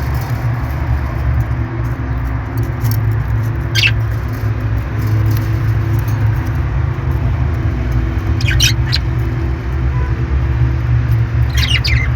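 Parrot giving short, high-pitched squeaky calls three times (about four seconds in, around eight and a half seconds, and near the end) over a steady low rumble.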